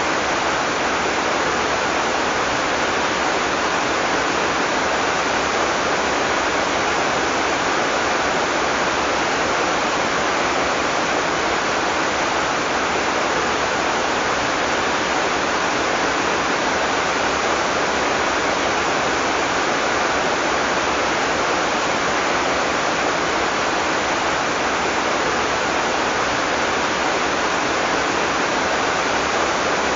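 Heavy rain pouring steadily, an even, unbroken hiss with no separate drops or thunder standing out.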